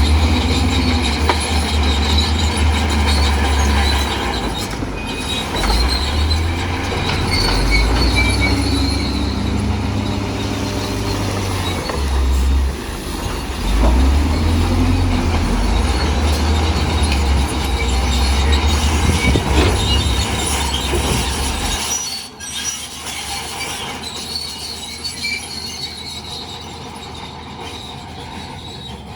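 Crawler bulldozer working: a heavy diesel engine under load with the steel tracks squeaking and clanking. The engine rumble drops away suddenly about three quarters of the way through, leaving quieter track squeaks.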